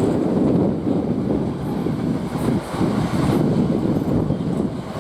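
Southern Class 377 electric multiple unit running past, a steady rumble of wheels on rail, with wind buffeting the microphone.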